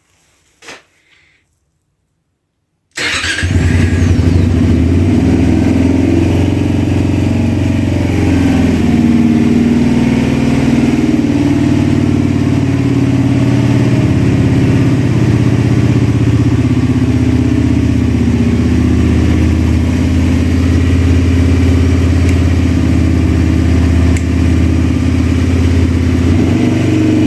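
Honda Varadero 125's 125 cc V-twin engine cold-starting at -5°C after three weeks standing: a faint click about a second in, then the engine fires suddenly about three seconds in and settles into a steady idle.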